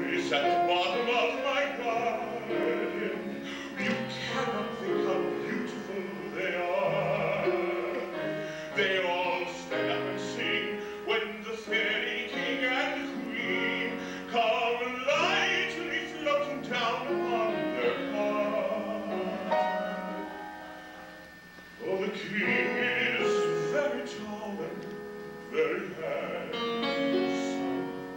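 A man singing in an operatic style over piano accompaniment.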